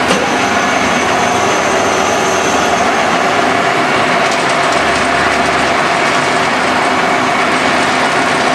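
Machinery running steadily: a loud, even mechanical din with a few faint steady tones.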